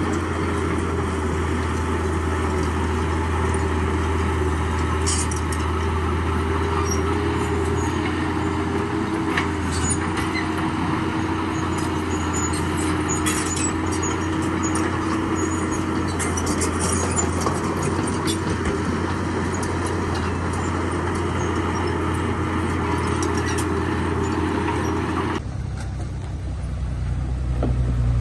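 Heavy construction machine's diesel engine running steadily, with scattered sharp knocks and clanks over it. Near the end the sound switches abruptly to a different, deeper engine.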